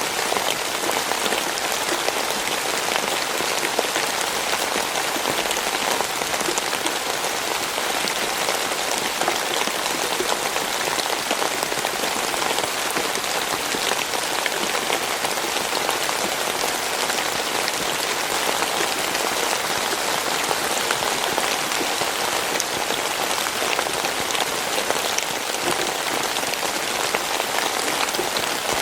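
Steady rainfall, the drops pattering on a surface in a dense even hiss with many small separate drop ticks, unchanging throughout.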